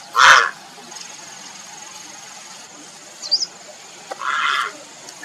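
Grey heron giving harsh calls, one loud call right at the start and another about four seconds in, calling for a mate. A short high chirp sounds just after three seconds, over a faint steady high hiss.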